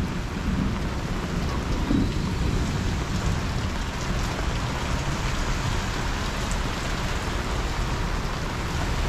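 Heavy tropical rain pouring down steadily during a thunderstorm, an even hiss with a low rumble underneath.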